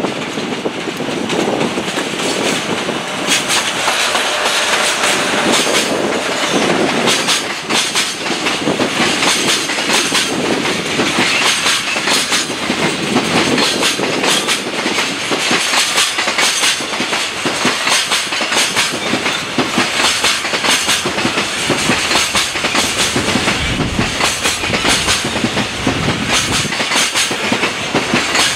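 Freight train passing at speed, its wheels clacking steadily over the rail joints.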